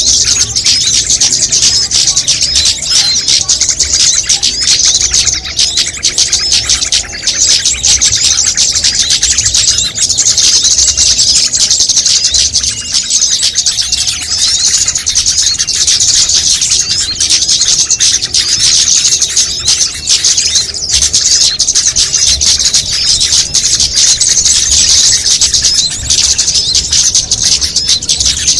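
A dense, unbroken chorus of high-pitched chirps and twitters from many small songbirds calling over one another. It is a mixed lure recording of small-bird calls, used to draw small birds in.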